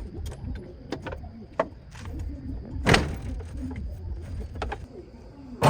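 Several sharp knocks over a low rumble, the loudest about three seconds in and another at the very end.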